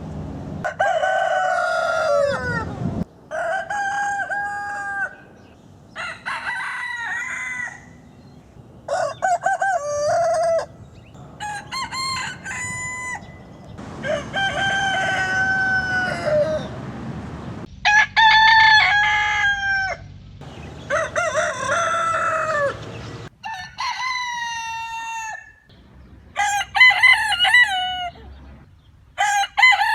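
Roosters crowing one after another: about eleven separate crows of one to three seconds each, at differing pitches, each starting and stopping abruptly.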